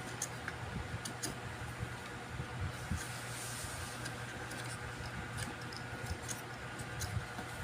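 Scattered small clicks and taps over a steady low hum.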